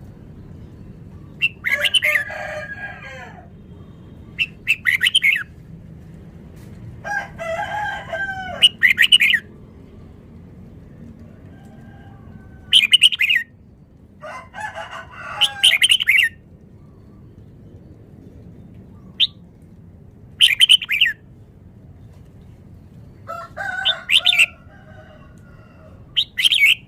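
Red-whiskered bulbul singing: short, quick, bubbling song phrases repeated with pauses of a few seconds between them, over a steady low background hum.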